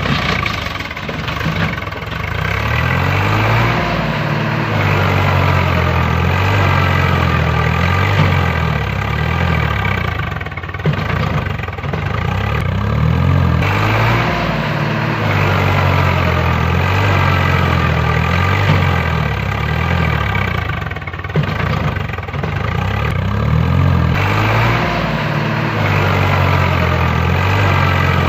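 Tractor engine sound running steadily, with the revs rising and falling in a pattern that repeats about every ten seconds, like a looped engine recording.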